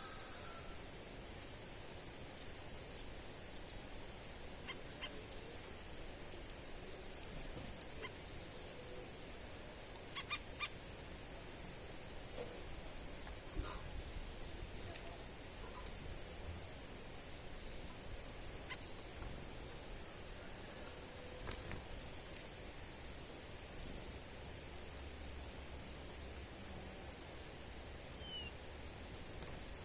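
A bird calling with short, very high-pitched chirps every second or two, over a steady background hiss.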